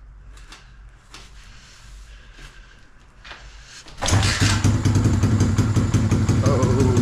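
125cc dirt bike engine being kick-started on choke: a few faint knocks as it is kicked, then about four seconds in it catches and keeps running steadily. This is the first start on a freshly fitted carburettor.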